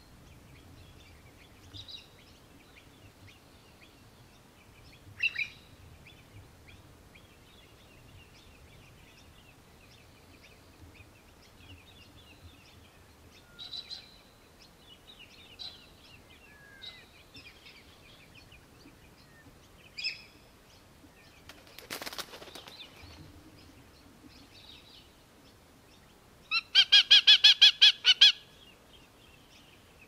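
Birds calling around a nest: scattered faint chirps and, near the end, a loud, rapid series of about ten harsh calls lasting under two seconds. A brief noisy rustle comes about two-thirds of the way through.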